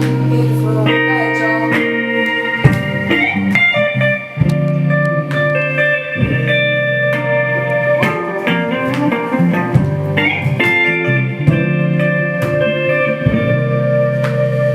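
Live band music: a guitar picks out an instrumental passage of plucked notes over sustained lower tones.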